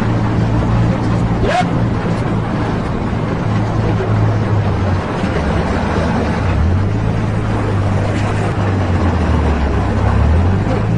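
Car engine running steadily, its pitch dipping and picking back up twice as the revs change.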